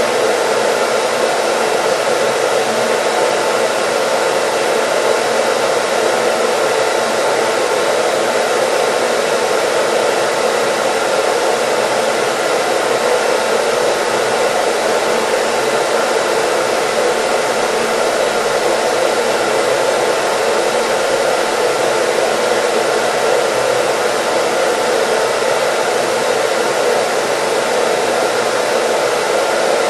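Hair dryer running steadily: an even, unbroken rush of air with a faint steady motor hum underneath.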